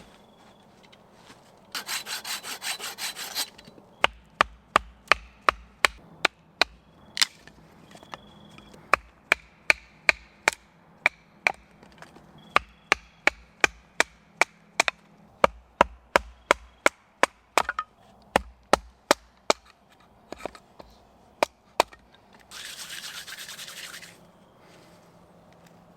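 Firewood being worked with hand tools: a short spell of hand sawing, then a long run of sharp wooden knocks about two a second, some with a dull thud under them, and a brief scrape of sawing near the end.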